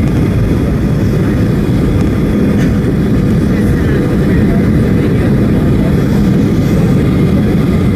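Boeing 737-800 cabin noise: a steady low rumble of the CFM56-7B jet engines and rushing air heard through the fuselage, with no change in level.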